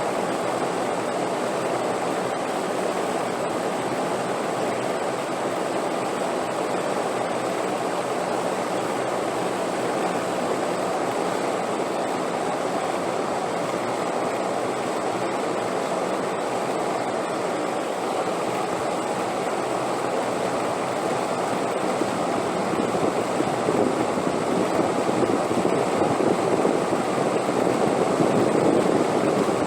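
Steady wind noise with no pitch, growing louder over the last several seconds.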